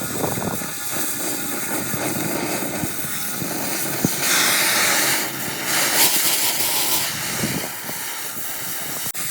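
Steady workshop noise with two loud bursts of hissing, each about a second long, about four and six seconds in, the first just after a sharp click.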